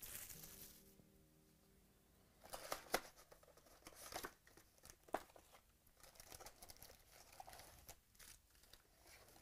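Trading-card pack wrappers crinkling and tearing open as cards are handled: a few short, faint rustles and snaps, the clearest about two and a half seconds in and again around four and five seconds. Faint background music runs under it.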